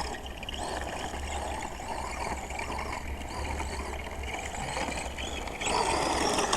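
Radio-controlled truck driving over rough ground: a steady noisy running and rumbling that grows louder near the end.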